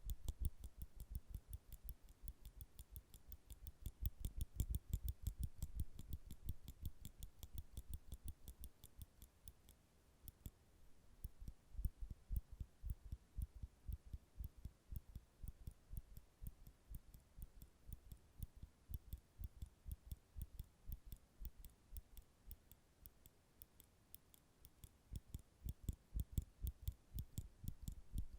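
Nail clippers clicked over and over close to the microphone: a fast, even run of small clicks, about four or five a second, each with a soft low thump, growing softer in the middle and louder again near the end.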